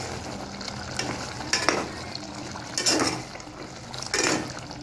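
Chicken in yogurt gravy sizzling in a metal pot over a high flame while a metal spoon stirs it. The spoon scrapes the pot three times. This is the high-heat bhuna stage of frying the korma.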